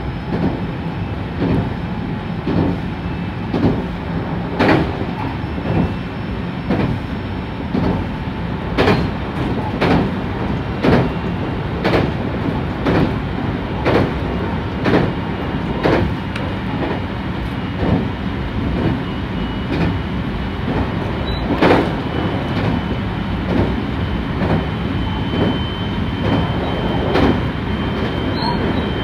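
Marine Liner electric train running at speed, heard from inside the front car: a steady rumble with the wheels clicking over rail joints about once a second. A faint high whine comes in about three-quarters of the way through.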